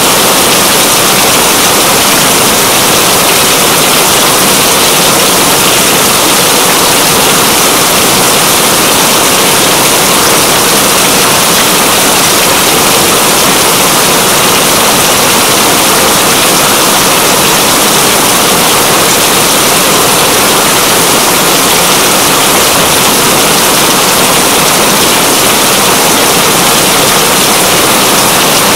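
Steady, heavy rain: a dense, even hiss of falling drops.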